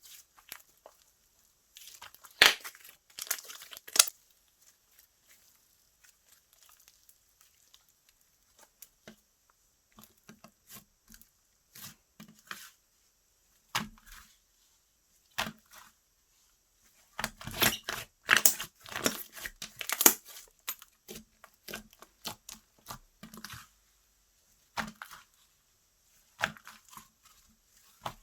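Slime being stretched, pressed and poked by hand, giving sticky crackling and popping clicks. The clicks come in bursts, densest a couple of seconds in and again from about two-thirds of the way through, with scattered pops between.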